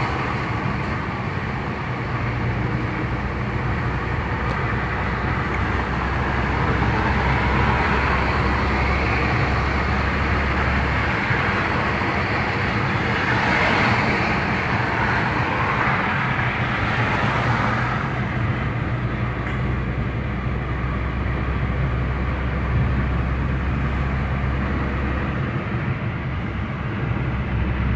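A car driving on the road: steady engine drone with tyre and road noise, swelling for a few seconds around the middle.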